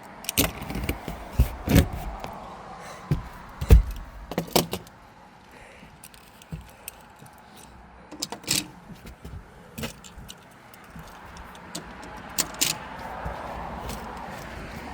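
Toy monster trucks being handled and set back on the race track: scattered clicks, knocks and rattles, busiest in the first few seconds, with a heavier thump about four seconds in.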